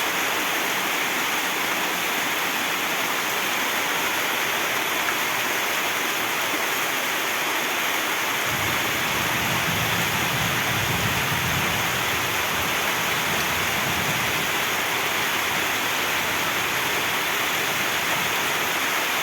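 Heavy rain pouring down in a steady, dense hiss. A low rumble joins it about eight seconds in.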